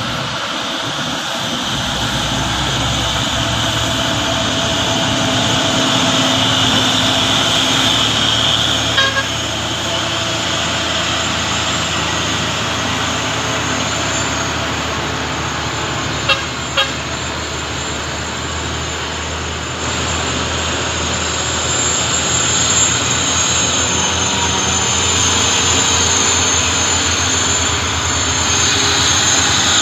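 Heavy truck engines running steadily under load. Brief beeps sound once about nine seconds in and twice in quick succession about seven seconds later.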